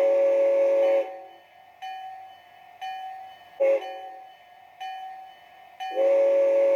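Model steam locomotive sound decoder playing a grade-crossing whistle signal. A long whistle blast ends about a second in, a short toot comes midway and a final long blast starts near the end. Between the blasts a locomotive bell rings about once a second.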